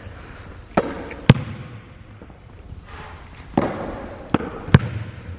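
A basketball bouncing hard, five sharp bangs with a short echo, irregularly spaced, the second one the loudest.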